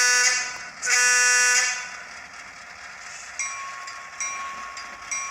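Model diesel locomotive horn sound from an ESU HO sound decoder, played through a small speaker, gives two blasts: one ending just as the clip begins and a second lasting about a second. A few seconds in, the decoder's locomotive bell starts ringing, a strike a little under once a second over a steady ring.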